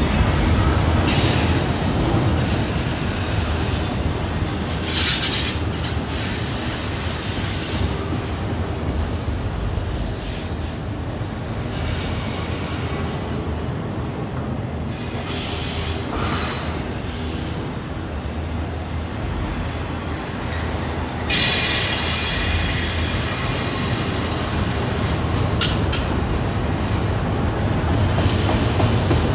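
Freight train cars, mostly autoracks, rolling past close by with a steady heavy rumble of steel wheels on rail. High wheel-flange squeal flares up several times, loudest about two-thirds of the way through, as the cars take a curve.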